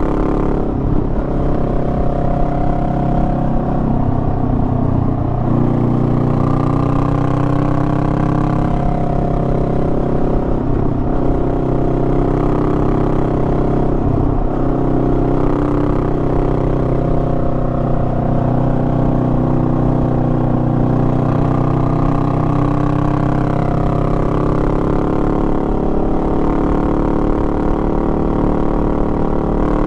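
Honda Rebel 500's parallel-twin engine running under way, with the whine and hum of riding. The engine note drops and climbs back up several times, about a second in, around 4–5 s, 10 s, 14 s, 23 s and again near the end.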